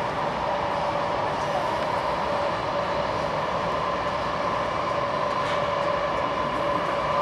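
Steady running noise of an E4 series Max double-deck Shinkansen heard inside the passenger cabin: an even rumble with a steady whine held over it.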